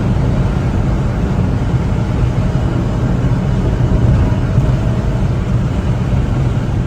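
1992 Honda Acty 4WD kei truck's small three-cylinder engine running steadily while the truck drives: an even low rumble with no change in pitch.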